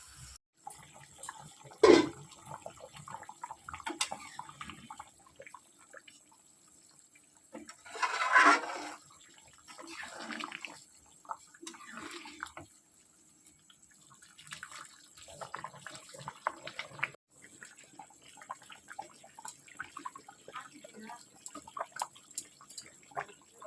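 Irregular kitchen handling noises, scattered knocks and clatter of utensils. There is a sharp knock about two seconds in and a brief rushing, splashing noise around eight seconds in.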